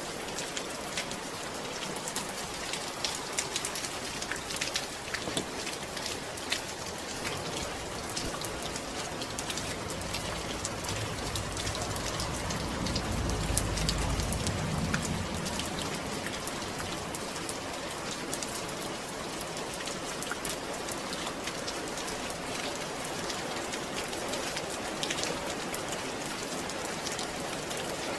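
Steady rain falling, with many separate drops ticking on a surface. A low rumble swells and fades about halfway through.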